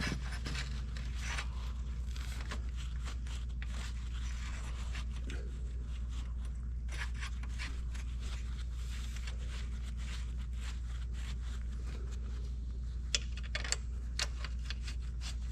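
Scraping and clicking of metal parts being pushed and worked into place by hand, over a steady low hum, with a few sharper clicks near the end.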